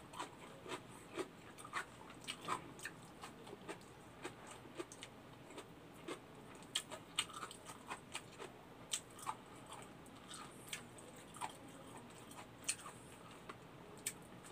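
A person chewing and eating close to the microphone: irregular soft wet clicks and lip smacks from a mouthful of rice and fish.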